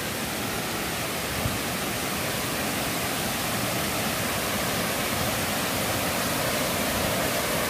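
Waterfall rushing steadily, growing gradually a little louder.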